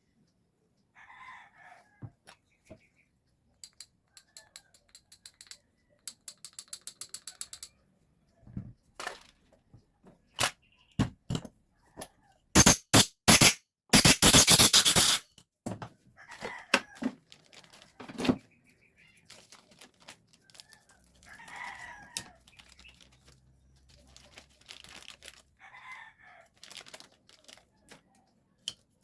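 A rooster crowing and clucking at intervals, over sharp clicks, a run of rapid ticking and a loud hiss lasting about two seconds midway, from small parts being handled and cleaned.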